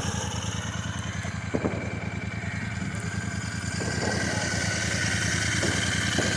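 Royal Enfield Super Meteor 650's parallel-twin engine idling steadily through its exhaust, getting slightly louder toward the end.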